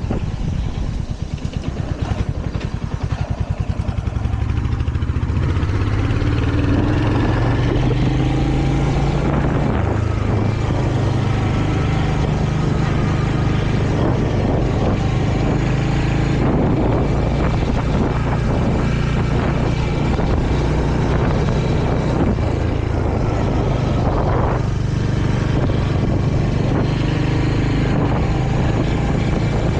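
Royal Enfield Hunter 350's single-cylinder engine under way, slow and pulsing for the first few seconds, then picking up revs and running fairly steadily.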